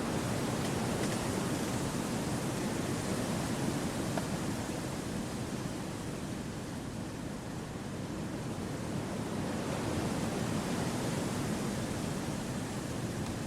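Wind blowing through forest trees: a steady, even rush that eases off a little midway and swells again.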